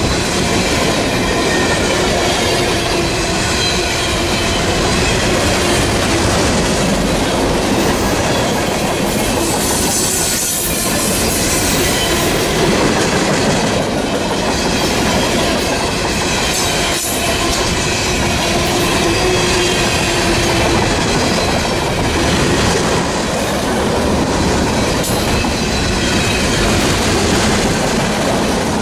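A train's cars rolling past on the rails in a steady, loud rumble, with wheel squeal heard at times.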